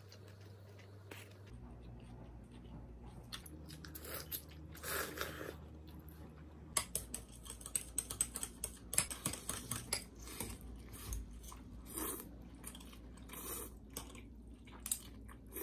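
Close-up eating sounds: food being bitten and chewed with irregular crisp crunching and crackling.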